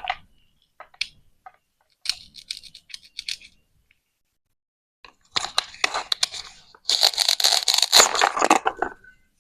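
Plastic toy vegetables being cut apart with a toy knife: a few short clicks, then a longer, denser run of quick crackling strokes, loudest near the end.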